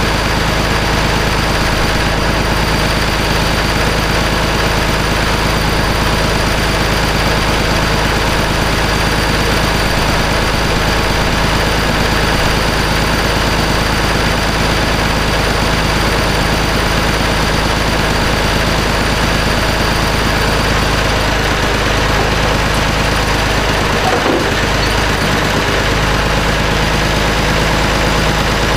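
A vehicle engine running steadily at a constant speed.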